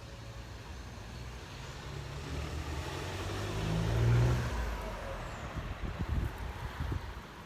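An engine passing by, growing louder to a peak about four seconds in and then fading away.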